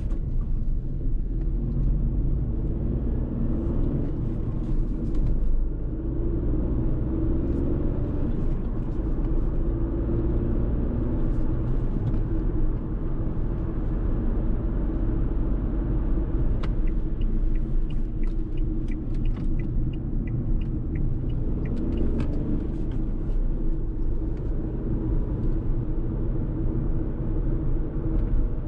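Fiat Tipo's 999 cc three-cylinder turbo petrol engine pulling steadily with heavy road and tyre rumble as the car drives at a fairly constant speed. A run of faint light ticks comes around the middle.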